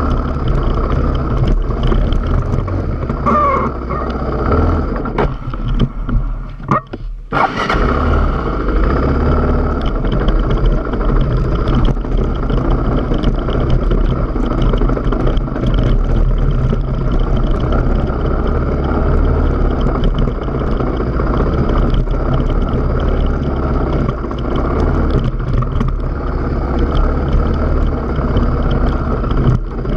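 Engine of a trail motorbike running steadily along a rough, rocky moorland track, with wind buffeting the microphone. The sound dips briefly about seven seconds in before picking up again.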